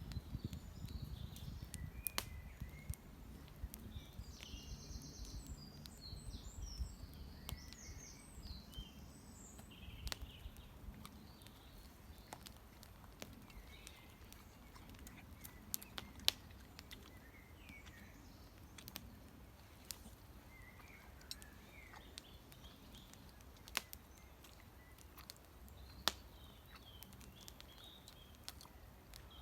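Outdoor ambience of wild birds singing and calling, with many short chirps through the whole stretch, over a low rumble. A few sharp, separate clicks stand out at intervals.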